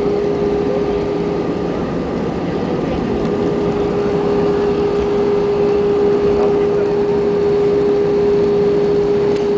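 Jet airliner cabin noise during landing: the engines and airflow make a steady rushing noise with a constant hum.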